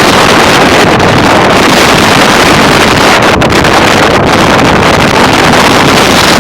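Strong, gusty high wind blowing hard against the microphone: a loud, continuous rush and rumble of wind noise that never lets up.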